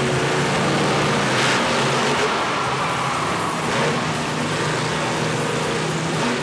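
Monster truck engine running loudly at a fairly steady pitch, over a broad wash of noise.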